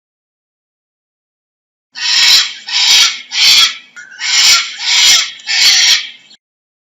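Cockatoo screeching: six loud, harsh screeches in a quick series, starting about two seconds in.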